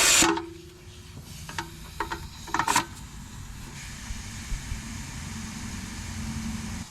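Compressed air hissing into a tire cuts off just after the start as the air chuck comes off, followed by a few clicks and a sharp knock. Then a steady low motor hum runs on.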